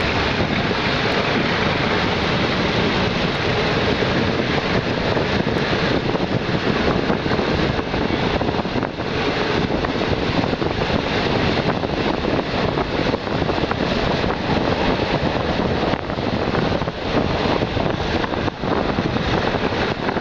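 Passenger train running, heard from an open carriage window: a steady rush of wheel and rail noise mixed with wind buffeting the microphone.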